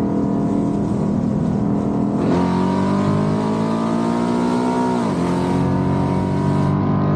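Car engine under acceleration. It holds a steady note for about two seconds, then its pitch climbs for nearly three seconds and drops sharply at a gear change, running on at the lower pitch.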